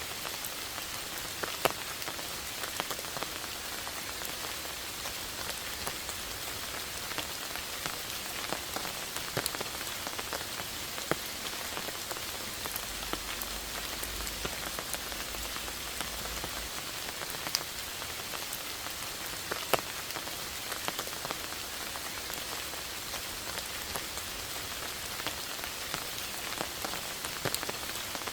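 Steady rain falling on moss, leaves and ivy, a constant patter with scattered louder single drops.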